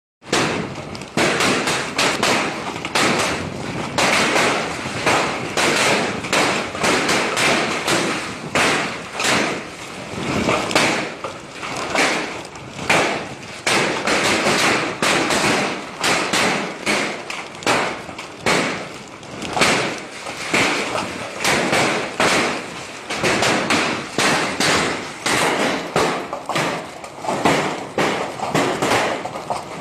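Hailstorm: hailstones pelting hard surfaces in a loud, dense, continuous clatter of thuds and taps.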